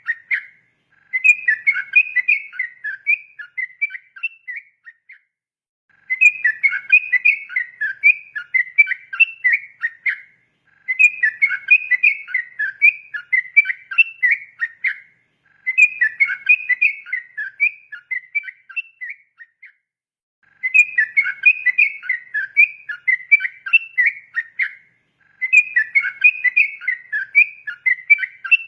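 Yellow-vented bulbul (trucukan, 'ropel' type) singing long bubbly bouts of rapid whistled notes. Each bout lasts about four seconds and is followed by a pause of about a second, so the song comes again roughly every five seconds.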